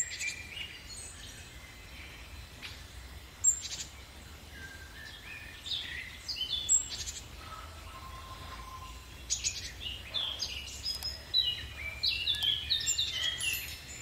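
Birds chirping and calling: scattered short high calls and quick pitch slides, sparse at first and busier in the second half, over a faint steady low rumble.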